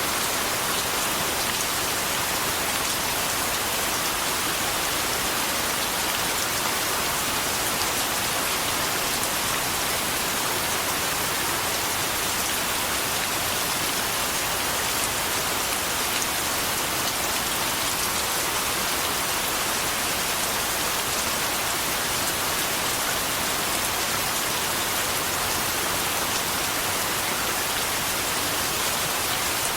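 Steady rain falling and pattering on a surface, an even hiss with fine drop ticks and no change in strength.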